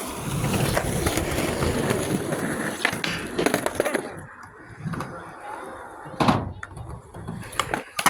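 Skateboard wheels rolling on concrete, with several sharp clacks of the board; the loudest clack comes a little after six seconds in.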